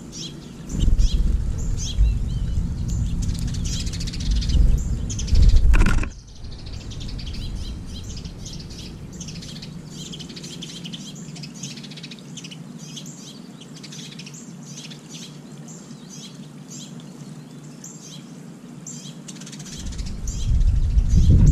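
Finches chirping in many quick, overlapping high calls. A low rumble runs under the first six seconds, cuts off abruptly, and comes back near the end.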